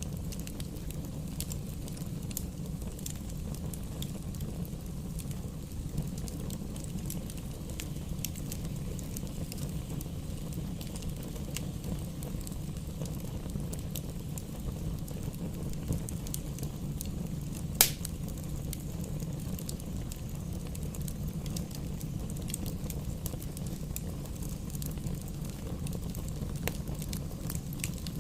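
Wood fire burning in a fireplace: a steady low rumble of flames with scattered small crackles and one loud pop about two-thirds of the way through.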